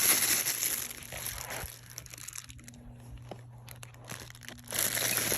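Packaging crinkling and rustling as ceiling-fan parts are unwrapped, dying down to a few clicks about two seconds in, then crinkling again near the end.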